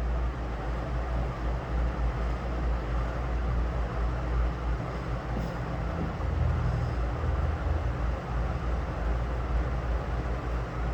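A steady low rumble with an even hiss over it, unbroken throughout.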